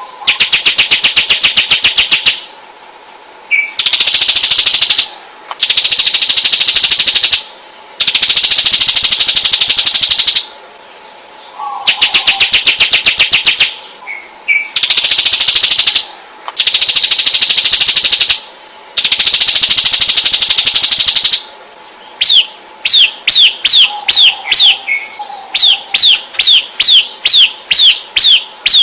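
Songbird tutor recording: loud, rapid chattering trills in repeated bursts of one to two seconds, followed near the end by a quick run of sharp downward-sweeping whistled notes.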